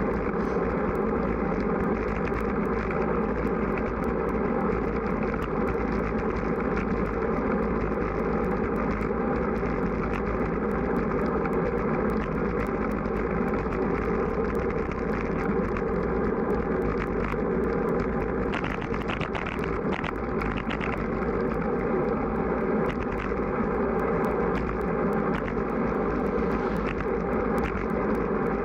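Strong wind rushing over the microphone of a camera on a moving road bike: a steady, muffled noise that turns briefly brighter a little past the middle.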